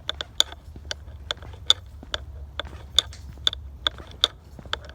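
Footsteps crunching on a dry woodland trail: sharp, uneven clicks and crunches at a walking pace of about two a second, over a steady low rumble of wind on the microphone.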